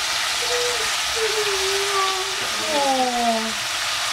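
Zucchini pieces frying in oil in a stainless saucepan, a steady sizzle.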